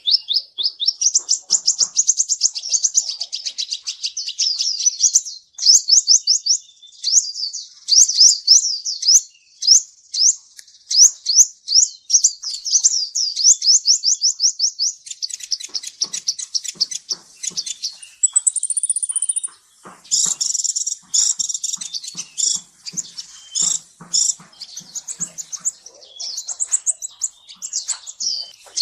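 Kolibri ninja sunbird song: fast, high-pitched twittering trills of rapidly repeated notes, broken by short pauses, with a thin high whistle about two-thirds of the way through and harsher, denser chattering after it.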